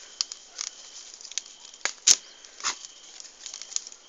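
Irregular sharp crackles and snaps of wood, a few louder cracks about halfway through.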